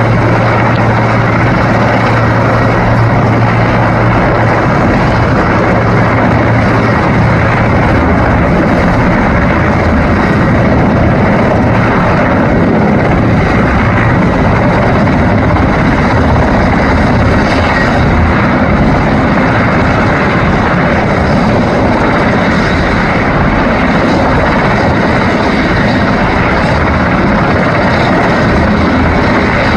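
Mil Mi-17 helicopter's twin turboshaft engines and rotors running loud and steady.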